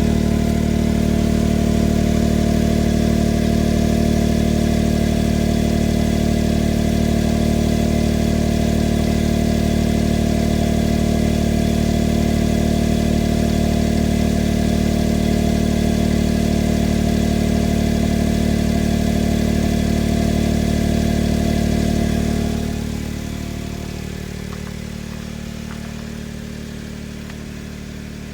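Honda S660's small turbocharged three-cylinder engine idling on a cold morning through an HKS Hyper SPEC-L II aftermarket exhaust, a steady drone. About 22 seconds in the idle drops to a lower, quieter note as the engine comes off its cold-start fast idle while warming up.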